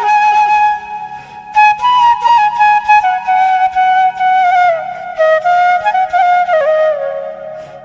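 Background music: a flute melody with sliding, bending notes that drifts downward over a soft low accompaniment, fading briefly near the end.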